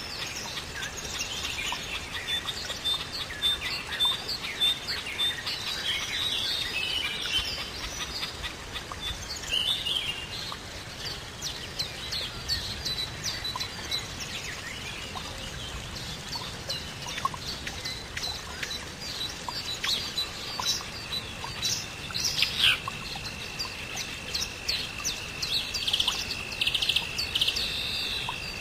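Several birds chirping and calling in quick, overlapping short notes. About three-quarters of the way through, a steady high-pitched whine sets in and holds under the chirps.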